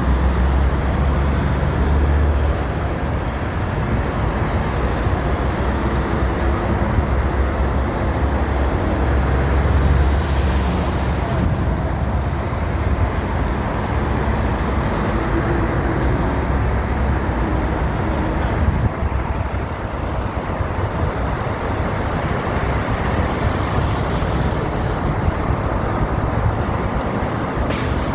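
Steady engine drone and road noise of a moving road vehicle.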